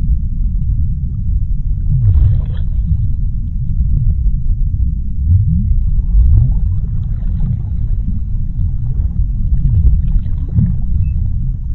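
Underwater ocean ambience: a deep, steady rumble with short low swoops in pitch rising and falling every second or so, and a brief hissing burst about two seconds in.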